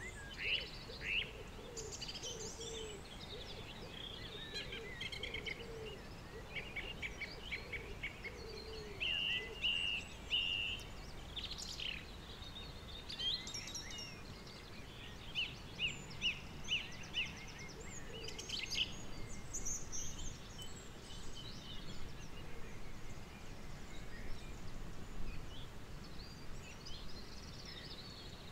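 Outdoor background ambience with small birds chirping on and off, many short calls in quick runs.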